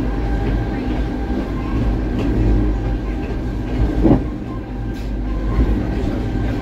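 Electric rack-railway train running downhill: a steady low rumble with a faint hum, and one brief louder thump about four seconds in.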